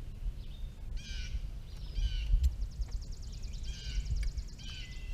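Birds calling outdoors: short harsh calls repeat roughly once a second, with a high buzzing trill in the middle, over a steady low rumble.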